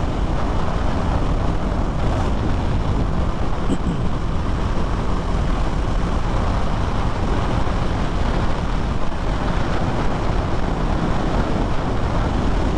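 Steady, loud wind and road rush on a moving motorcycle's camera microphone, with no clear engine note standing out.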